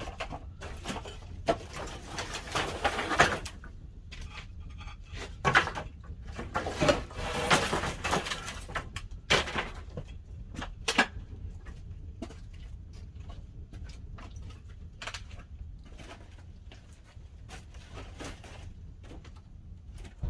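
Pine-log fire in a wood-fired kiln crackling and popping in irregular bursts over a steady low rumble; the pops are busiest in the first half and thin out later.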